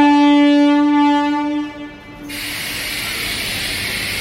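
Train horn sounding one long, steady blast that fades out after about two seconds, followed by a steady rushing noise.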